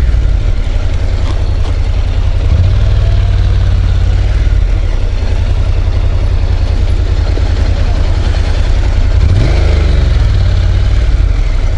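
Motorcycle engine running at low speed, with a steady rapid beat of firing pulses; the revs shift briefly about nine and a half seconds in.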